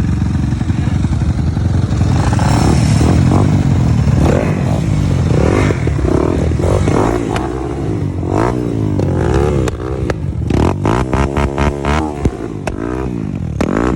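Dirt bike engine revving, its pitch climbing and falling again and again, in quicker, choppier blips over the second half.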